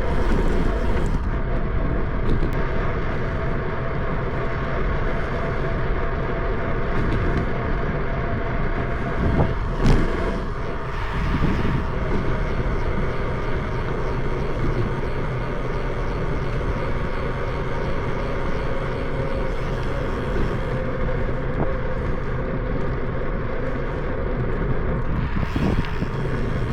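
Steady wind rumble and rolling noise on a bicycle-mounted camera while riding, with a short louder gust about ten seconds in.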